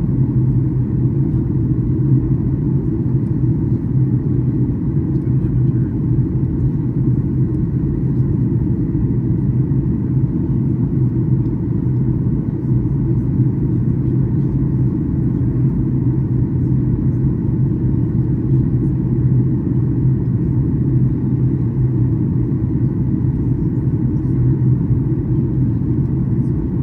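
Steady low drone of a Boeing 737-800 in flight, heard from inside the passenger cabin: its CFM56-7B turbofan engines and the airflow over the fuselage, with no change in pitch or level.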